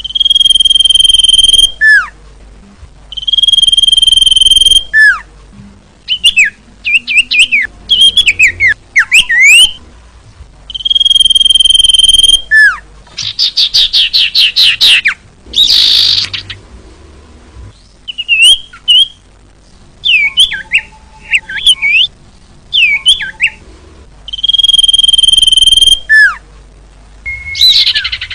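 Female common iora (cipoh) calling: long, level whistles, each dropping in a quick downward slur at the end, alternating with rapid chirps and fast trills. Near the end an insect-like buzz sets in.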